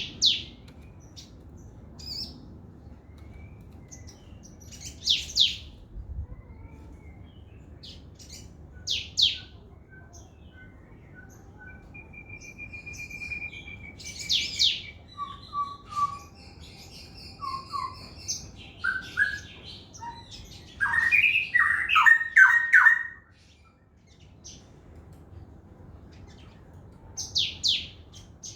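Songbird, a sogon trotol, singing. Sharp downward-sweeping high whistles come every few seconds, with a short even trill in between. Past the middle there is a loud, rapid run of notes, the loudest part, then a short pause and another whistle near the end.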